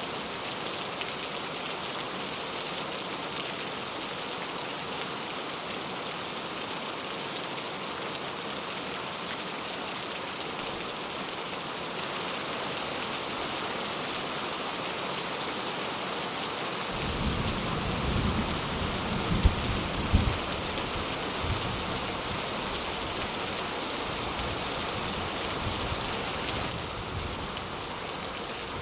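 Steady rain hissing. A little past halfway a low thunder rumble rolls in, with a couple of sharp cracks, and dies away near the end.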